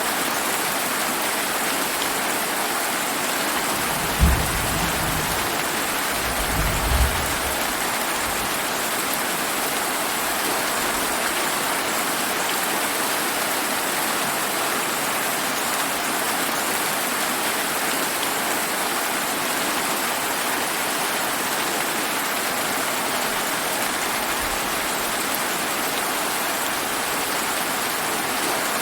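Steady heavy rain falling. About four seconds in there is a sudden low thunder boom, and about two seconds later a low rumble of thunder; a fainter rumble comes near the end.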